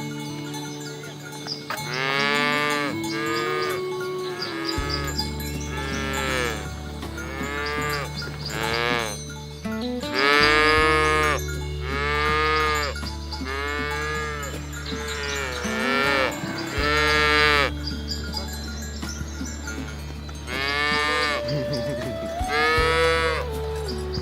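Cows mooing in a run of short calls that rise and fall in pitch, about one a second, over background music whose held low notes change every few seconds.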